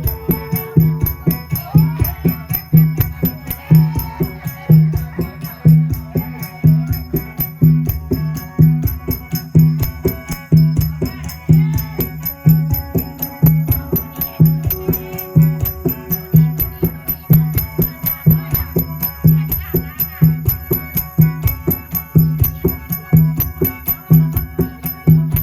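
Isan folk music led by a phin hao, a deep-toned plucked lute, strummed and picked densely over a drone. A steady low beat and shaker-like percussion keep an even rhythm.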